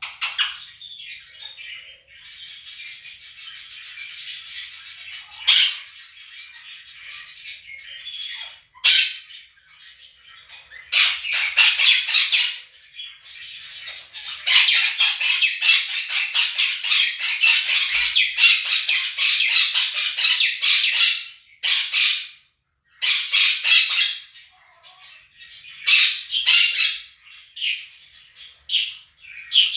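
Two Quaker parrots (monk parakeets) calling very loudly in long screeching, chattering bouts. A softer, steady twittering from a budgerigar flock, played through a speaker, is drowned out by them.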